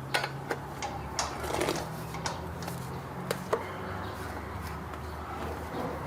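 Scattered light clicks and knocks, about a dozen short ones, over a steady low hum.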